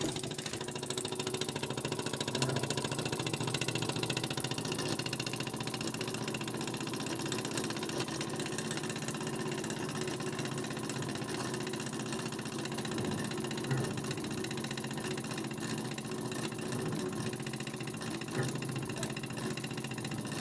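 Small Burnac Vulcan model live-steam engine running steadily and smoothly, a fast even beat with a few brief louder knocks.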